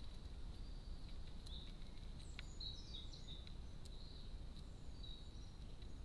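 Faint songbird chirps, a handful of short high notes about two to five seconds in, over steady low background rumble and a thin steady high tone; a few light clicks.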